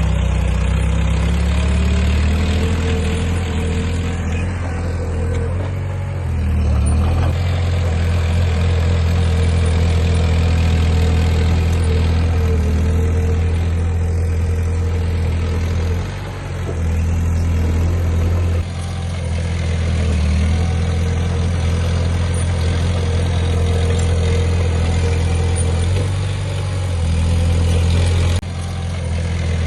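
Diesel engine of heavy earthmoving machinery running steadily with a deep, even drone, changing level suddenly a couple of times.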